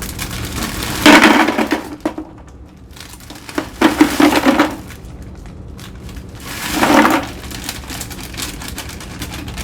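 Cookies poured into a container, clattering and tumbling in three bursts about a second, four seconds and seven seconds in, with the first the loudest.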